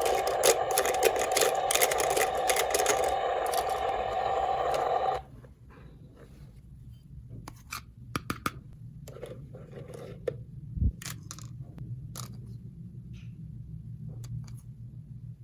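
A loud steady sound with many stacked tones cuts off suddenly about five seconds in. Then come scattered light clicks and short scrapes of small plastic toy pieces being handled.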